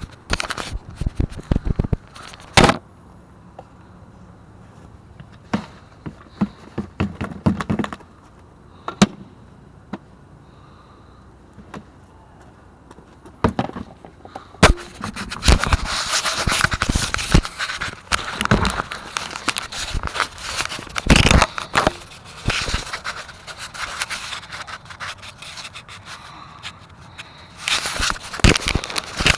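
Objects being handled and moved about: sharp knocks, clicks and scraping, sparse at first, then dense, continuous rustling and scraping from about halfway through.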